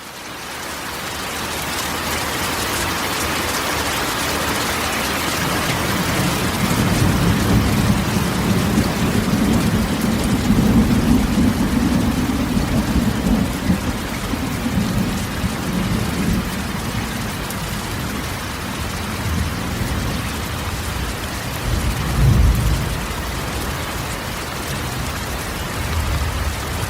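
Steady rain drumming on a corrugated metal (tôn) roof. Thunder rolls in low and long through the middle, and a shorter clap comes about three quarters of the way through.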